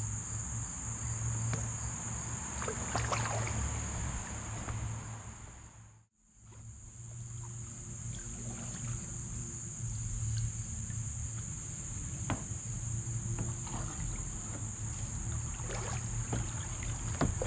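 A steady high-pitched insect chorus with a low rumble beneath and occasional kayak paddle splashes and drips. Everything cuts out briefly about six seconds in.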